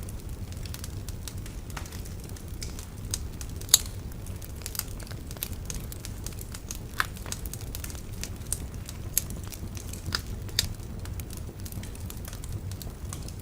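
Wood bonfire crackling: irregular sharp pops and snaps over a steady low rumble, the loudest pop about four seconds in.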